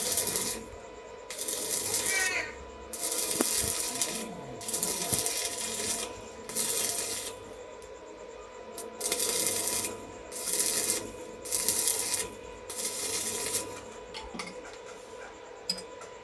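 Metalworking on a steel fish spear: a series of harsh hissing bursts, each about a second long with short pauses between them, stopping about two seconds before the end.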